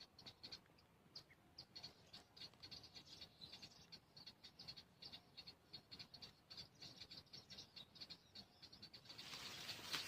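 Faint, rapid high-pitched bird chirping, many short notes a second. A rushing noise swells near the end.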